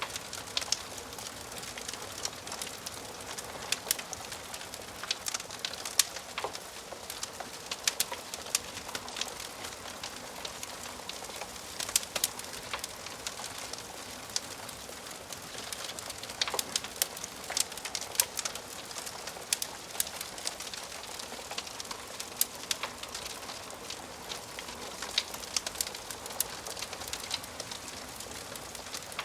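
Wood fire burning in a fireplace, crackling with many sharp, irregular pops and snaps over a steady hiss.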